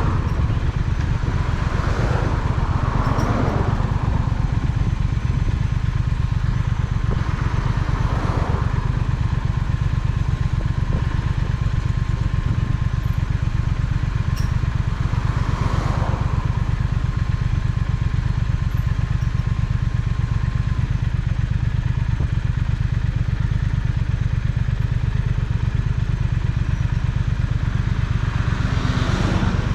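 Triumph Speed Twin parallel-twin motorcycle engine running steadily while riding, heard from on the bike with wind and road noise. A few brief swells of noise come and go, and a faint steady whine runs through the first two-thirds.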